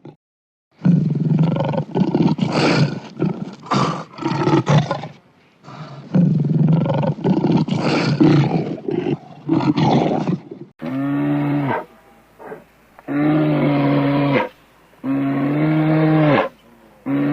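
A big cat roaring in repeated harsh roars for about ten seconds. About eleven seconds in, the sound cuts to a cow mooing: three long, steady moos.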